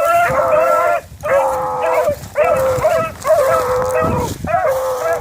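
Several rabbit hounds baying, long drawn-out calls repeated about once a second with two or more voices at different pitches overlapping.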